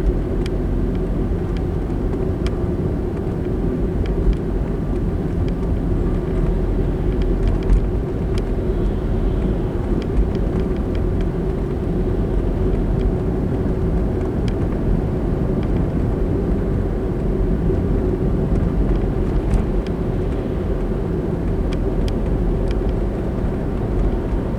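Steady road and engine noise of a moving car, heard inside the cabin, with a low steady hum and a few faint clicks.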